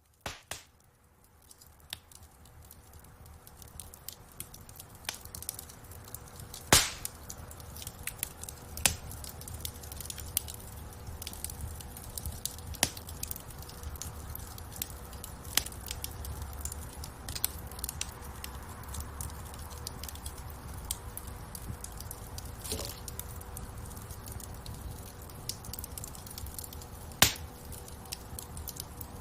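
Wood fire crackling in a fireplace: a steady low rumble of flames with many sharp snaps and pops, two louder pops about seven seconds in and near the end. The sound swells in from silence over the first few seconds.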